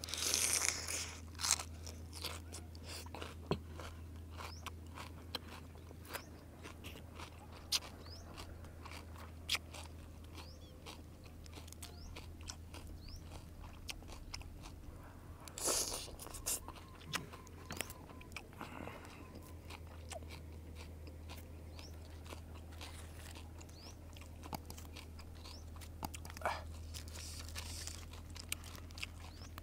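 Close-up crunching and chewing of raw vegetables and fresh leaves, with many short crisp bites. There are two louder slurps, one about half a second in and one near the middle, over a steady low hum.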